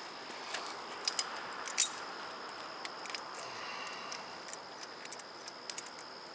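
Scattered sharp metallic clicks and clinks of hand tools and car parts being handled, the loudest a little under two seconds in. A steady high insect drone runs underneath.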